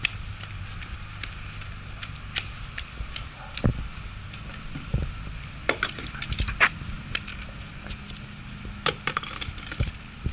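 Scattered light clicks and knocks of toys being handled and knocked together, over a steady background hum.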